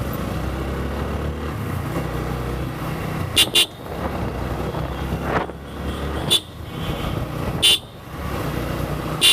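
Motor vehicle engine running steadily in road traffic, with short high-pitched horn toots: a quick double toot about three and a half seconds in, then single toots every second or so after.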